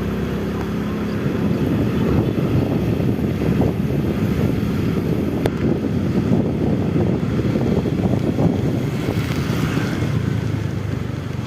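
Wind buffeting the microphone: a steady, rough low rumble, with a single sharp click about five and a half seconds in.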